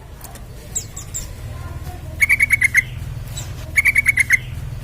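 Yellow-vented bulbul calling: two quick bursts of about seven bright chirps each, a second and a half apart. A few thin, high chirps come about a second in.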